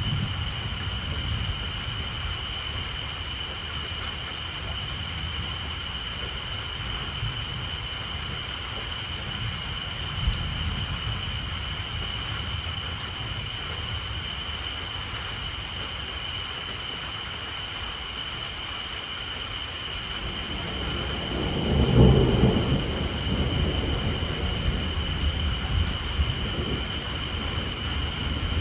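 Rain pattering steadily on a tin roof under low rolling thunder, with one louder rumble swelling about three quarters of the way through. A steady high chorus of tree frogs runs underneath.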